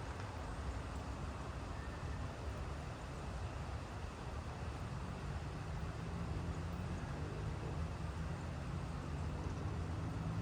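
Steady rain hiss over a continuous low rumble. A low hum in the rumble grows a little louder after about six seconds.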